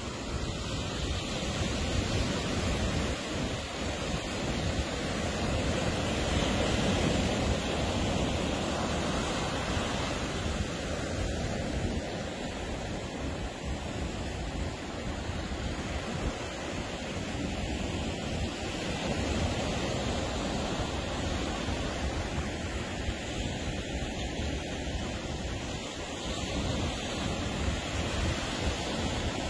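Ocean surf breaking on a sandy beach: a continuous wash of waves that swells and eases every few seconds.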